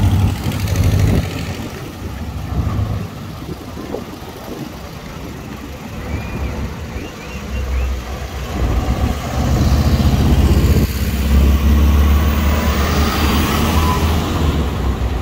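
A motor vehicle's engine running close by with a low rumble. It eases off in the middle and grows louder again from about two-thirds of the way in.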